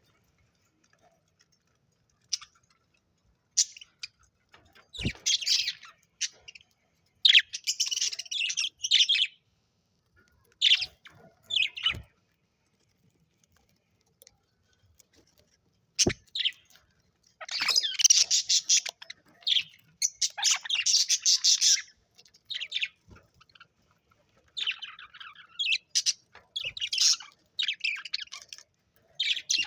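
Pet budgerigars chirping and chattering in irregular bursts with short quiet gaps, busiest in the second half, plus a few sharp clicks.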